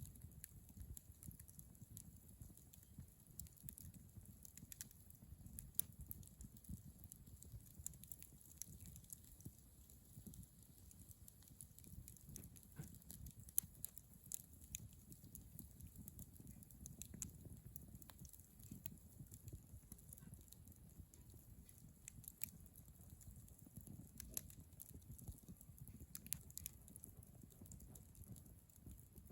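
Wood bonfire burning quietly, with scattered sharp crackles and pops over a soft low rumble; the loudest pop comes about halfway through.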